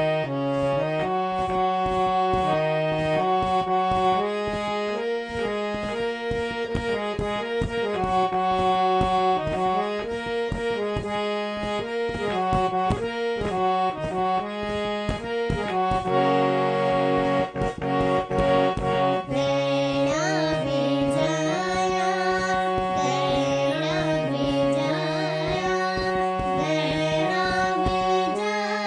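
Harmonium playing a Garhwali folk melody in held, stepping notes over a steady hand-drum beat. About twenty seconds in, a young girl's singing voice joins.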